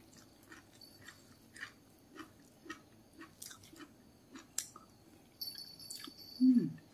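Close-up chewing of a mouthful of rice, pepes tahu and raw vegetables: a run of small wet clicks and smacks, one or two a second. Near the end comes a short low hum that falls in pitch.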